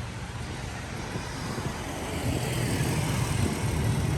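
Road traffic noise: passing vehicle engines and tyres, growing louder through the second half.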